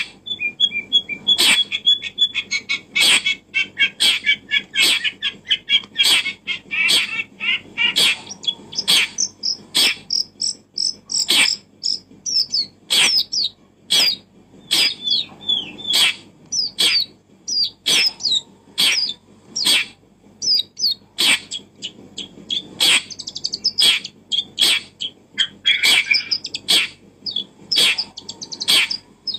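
Small birds chirping and twittering in quick, varied notes, over a sharp click that repeats about every three-quarters of a second.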